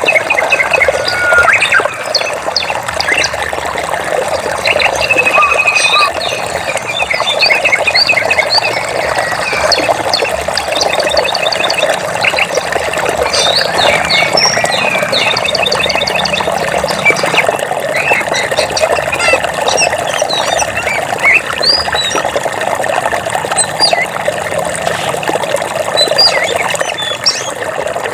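Forest ambience: many birds chirping and trilling, some in quick repeated note series, over a dense, continuous low chorus.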